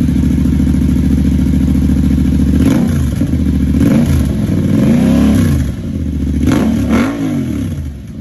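2022 Yamaha R7's parallel-twin engine running through a newly fitted Brothers 2-into-1 header and hi-flow exhaust: a loud, steady idle just after start-up, then four throttle blips, the longest rising and falling about halfway through.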